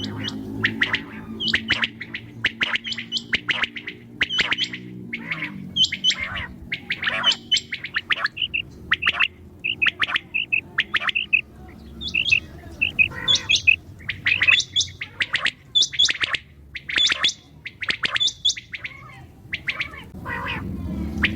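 Quail calling: a dense run of short, high chirping calls, several a second, over a low steady hum.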